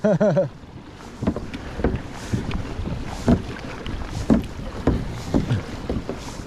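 Kayak being paddled across the water, with a stroke about every half second to second.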